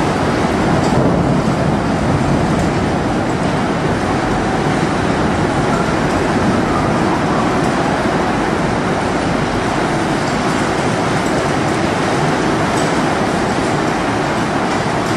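Heavy rain pouring down in a steady, loud downpour during a thunderstorm.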